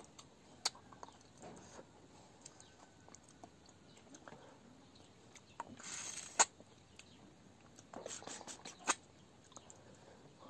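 Close-up eating sounds of chicken and rice eaten by hand: chewing with scattered wet mouth clicks. There is a short rushing noise about six seconds in, and a cluster of clicks a little later.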